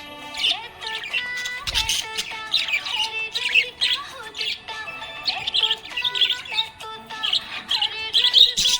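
Budgerigar chirping and warbling in quick, wavering bursts over background music with held notes.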